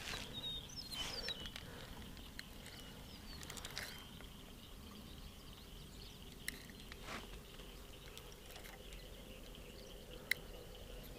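Faint evening pond-side ambience: a steady, high-pitched insect drone, with a few short bird chirps in the first second or so. Two small sharp clicks come about six and ten seconds in.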